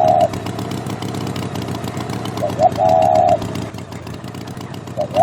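An engine running steadily with a low rumble. Over it a bird call repeats: two short rising notes and a longer warbling note, heard about two and a half seconds in and again near the end.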